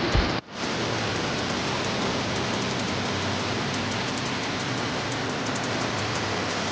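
Steady rushing noise of a waterfall, its water and spray making an even hiss. A short thump and a brief break in the sound come just at the start.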